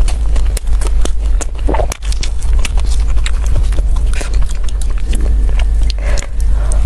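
Close-miked chewing of a soft sesame-seed burger bun, with many small wet mouth clicks and smacks. Louder rustling bursts come about four and six seconds in as the bun is torn and dipped into a thick sauce. A steady low hum runs underneath.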